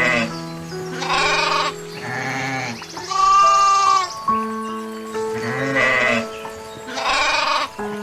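Sheep bleating over soft background music: about six separate bleats, the longest and loudest about three seconds in.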